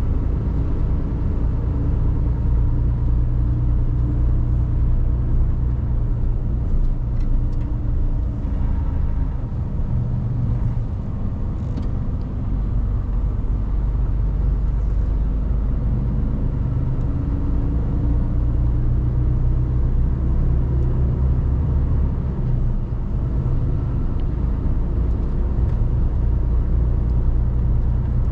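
Mercedes-Benz Actros diesel truck running as it is driven, heard from the cab: a steady low engine rumble whose pitch rises and falls a few times as the truck speeds up and slows down.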